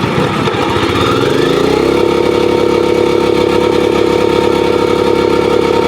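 Engine of the slab-casting machinery picking up speed about a second and a half in, then running steadily at higher revs.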